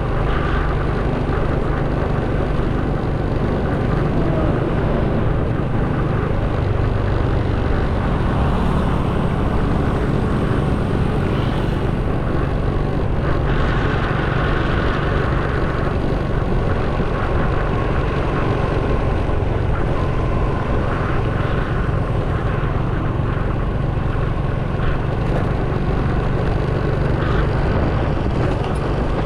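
Motorcycle riding at a steady speed, heard from a camera on the bike: a constant rush of wind and engine and road noise.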